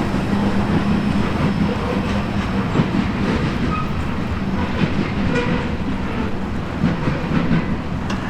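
Freight cars of a grain train rolling past at speed: a steady rumble of steel wheels on rail with a low hum and scattered clicks and clacks from the wheels over the track.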